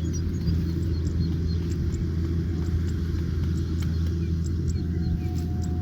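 Kubota combine harvester's diesel engine running steadily under load, a loud, even, low hum.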